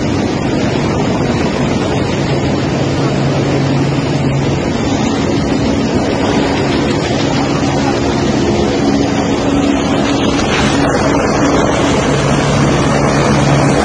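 Helicopter running steadily: a loud, constant engine and rotor noise with a low hum, with wind noise on the microphone.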